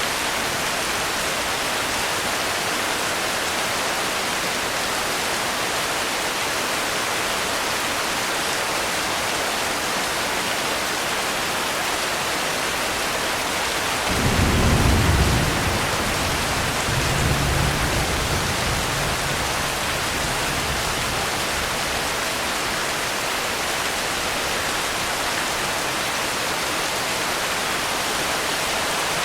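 Steady rain hiss throughout. About halfway through, a roll of thunder rumbles in suddenly, swells again a couple of seconds later and fades out over about six seconds.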